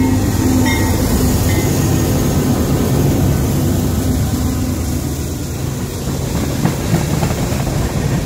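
CSX diesel freight locomotives passing close by, engines running and steel wheels rumbling on the rails, with the first freight cars following behind them. A steady tone in the first second or two fades away, and two sharp clacks come near the end.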